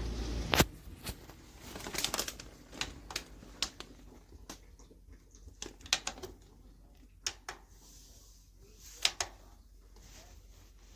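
Irregular light clicks and knocks, several seconds apart. A steady hum cuts off with a sharper knock just after the start.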